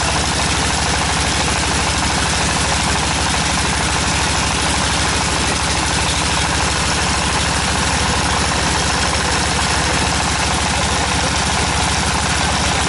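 Tractor-mounted water well drilling rig's engine and machinery running loud and steady at a constant speed.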